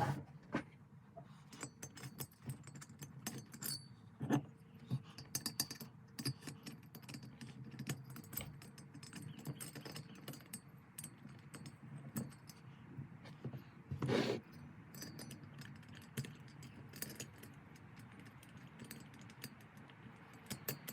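Metal tools and engine parts clinking and ticking as a cylinder head is bolted back onto a small bicycle engine, with one louder knock about fourteen seconds in.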